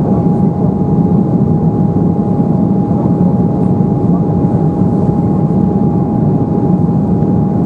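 Steady jet cabin noise inside an Embraer 190, its two GE CF34-10E turbofans running evenly. It is a constant low rumble with a single steady high tone over it.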